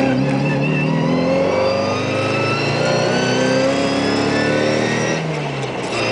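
Mini 998cc Cooper A-series four-cylinder engine on a Weber 40 carburettor accelerating hard from inside the cabin, its note climbing steadily in pitch. About five seconds in it drops away briefly, as at a gear change, then starts climbing again.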